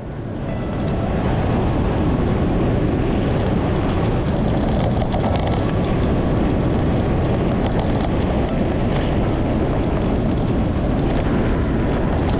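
Steady wind rush and rumble on the microphone of a camera riding along on a moving bicycle, with a few faint clicks.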